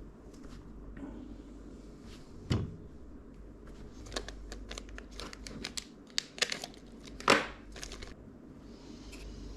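Packaging being handled: plastic or paper crinkling with scattered light clicks. There is a dull knock about two and a half seconds in and a louder crackle about seven seconds in.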